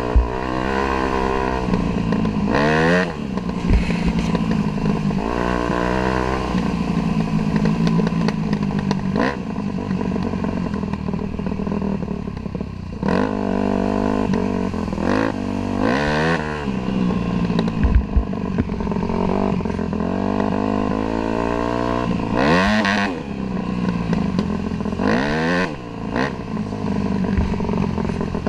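Dirt bike engine running hard while riding, its pitch dropping and climbing again several times as the throttle is rolled off and on through gear changes.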